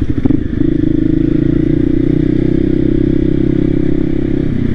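Voge 300 Rally's single-cylinder engine running under way, its note picking up about half a second in and then holding steady.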